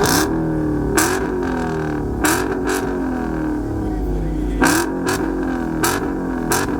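Car engine with a mid-muffler delete revved in about seven sharp throttle blips, each sweeping up and then falling back towards idle, with the engine running steadily between them.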